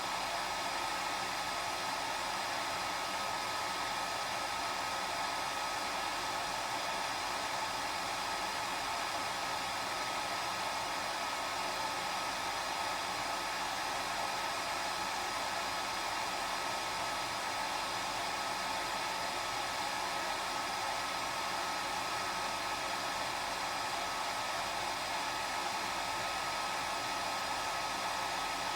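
Hair dryer running steadily: a continuous rush of blown air with a steady motor whine, unchanging in pitch and level.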